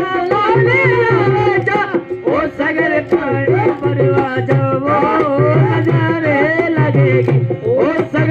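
Live Rajasthani folk music: a singer's voice over a steady hand-drum rhythm and sustained melodic accompaniment.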